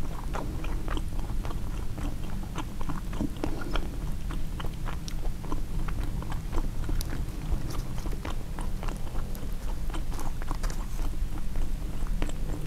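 Close-miked chewing of a turkey sausage, egg and cheese bagel sandwich: irregular wet mouth clicks and smacks, many to the second, over a steady low hum.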